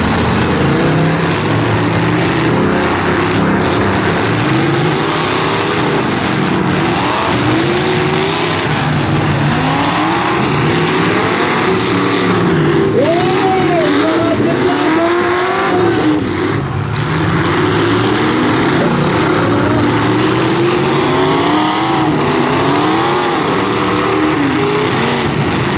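Several eight-cylinder demolition derby car engines revving up and down over one another as the cars manoeuvre and ram each other, loud throughout.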